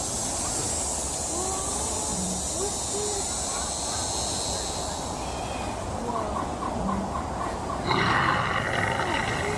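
Birds calling: short gliding notes over steady background noise, a quick run of repeated notes about six seconds in, and a louder call near the end.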